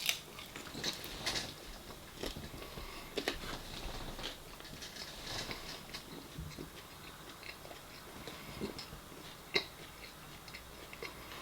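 A person chewing and biting food close to the microphone, with scattered small crunches and clicks.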